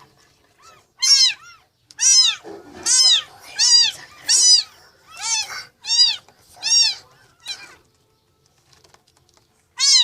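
Newborn kitten crying: a quick run of about nine short, high-pitched mews, each rising and falling in pitch, then a pause of about two seconds and one more mew at the end.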